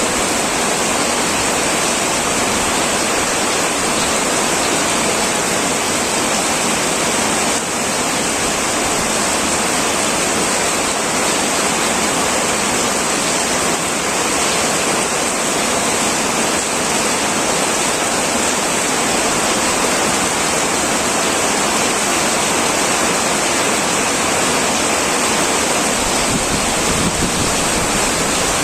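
Heavy rain pouring steadily on a tin roof, a dense, even hiss.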